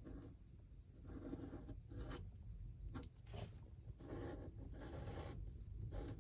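A series of short, faint rasping strokes of a craft tool scraping over paper.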